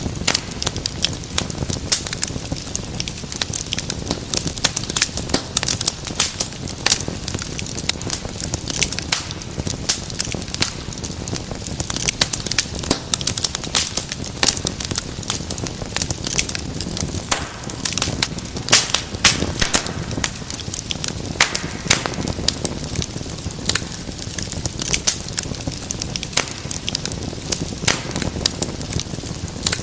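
Wood fire in a fireplace burning steadily, with a low rumble and dense, irregular crackles and pops.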